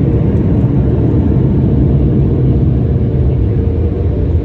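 Automatic car wash's air-dryer blowers running, a loud, steady low rumble heard from inside the car's cabin.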